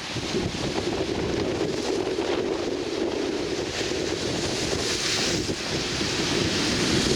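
Wind buffeting the microphone, a steady rushing noise that grows a little stronger near the end.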